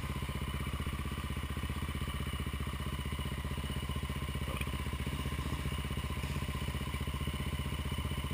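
An engine idling steadily, with an even, unchanging beat.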